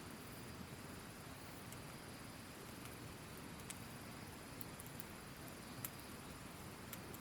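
Wood fire crackling, with a few scattered sharp pops from the burning wood; the loudest comes about six seconds in. Underneath is a steady low rush of a flowing stream.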